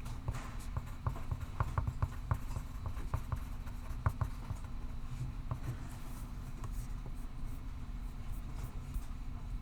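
Pencil writing on paper: quick scratchy strokes, dense in the first half and sparser toward the end, over a steady low hum.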